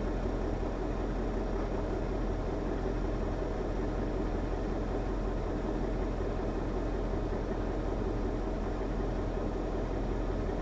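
KAMAZ truck's diesel engine running steadily at an even speed.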